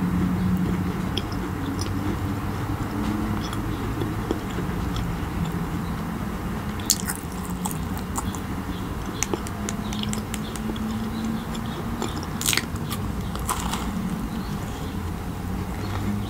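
Close-miked eating of macarons: soft chewing, then crisp crackling clicks in the second half as a macaron's shell is bitten into.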